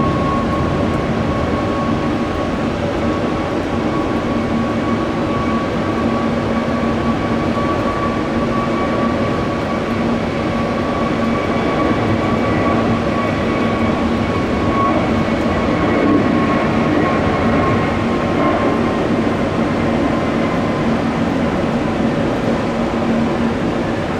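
Jet airliner engines running steadily: a loud, even rumble with a steady whine.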